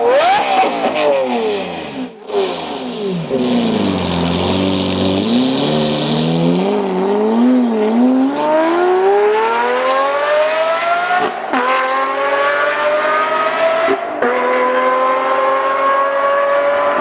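Lamborghini supercar engines and exhausts in a run of short clips: the revs fall away, then a low burble with a few small throttle blips, then long accelerations with the pitch climbing steadily.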